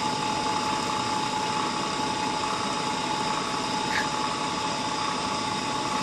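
Steady mechanical whirr with a constant high whine, as from a small motor running, unchanged throughout; a faint short squeak about four seconds in.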